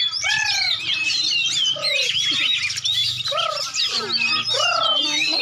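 Many caged songbirds singing at once in a contest: a dense chorus of overlapping chirps, whistles and trills, with a lower rising-and-falling call repeating about once a second.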